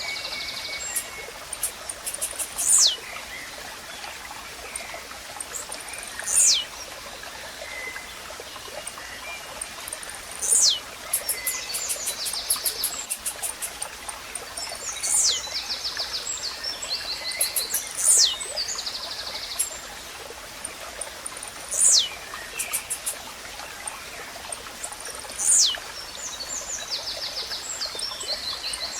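Blue-black grassquit (tizil) singing: a short high note that sweeps sharply downward, repeated every three to four seconds. Between the calls other small birds give rapid chirping trills over a steady background of running water.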